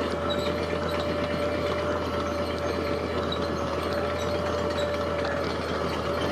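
Heavy diesel construction machinery running steadily, with a constant whine held over the engine's low hum.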